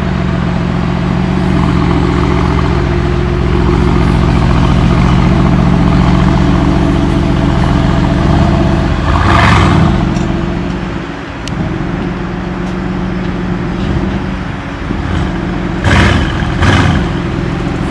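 Mercedes-AMG 63's twin-turbo V8 running steadily under way. Its sound swells briefly about halfway through, and two short sharp bangs come near the end.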